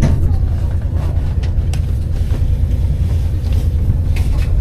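Steady low rumble of a passenger train running, heard from inside the carriage, with faint scattered clicks over it.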